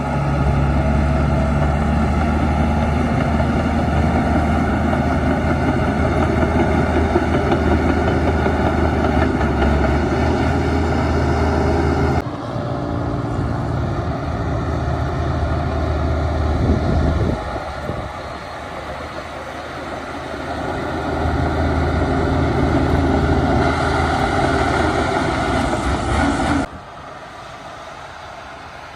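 Heavy diesel earthmoving machinery (a bulldozer working with dump trucks) running under load with a steady low engine drone. The sound changes abruptly about 12 seconds in, eases for a few seconds in the middle, builds again, and drops off sharply near the end.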